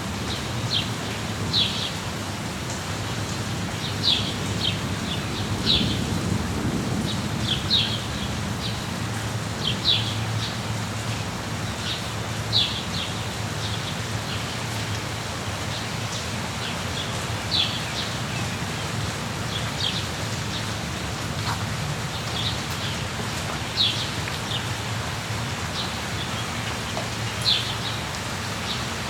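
Steady rain falling, with a songbird's short, high chirps repeating every second or two over it.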